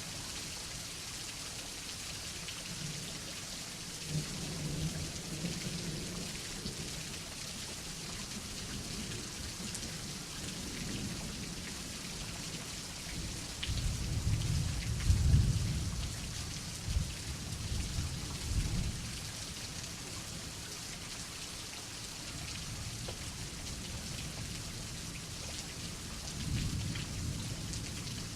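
Steady rain hissing, with rolls of thunder. A faint rumble comes about four seconds in, a long, loud rumble with several sharp peaks comes around the middle, and another rumble comes near the end.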